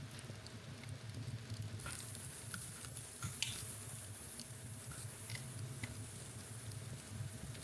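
Wood fire crackling in a fireplace: a low rumble of burning with scattered sharp snaps and pops, one louder pop near the middle. A steady high hiss joins about two seconds in.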